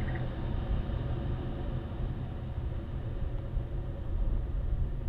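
Steady low rumble of jet aircraft engines at an airport.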